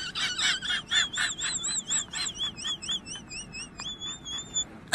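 A bird's high-pitched song: a run of quick chirps, about four a second, then a warbling whistled note with a fast wobble in pitch that steadies and stops near the end.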